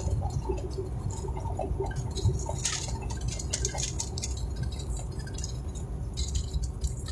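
Steady low rumble of a vehicle cabin on the move, with scattered light clicks and taps.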